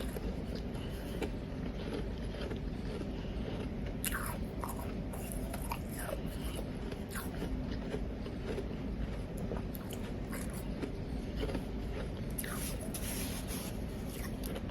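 Someone biting and chewing powdery ice close to the microphone: soft crunching and crackling, in scattered clusters over a steady low hiss.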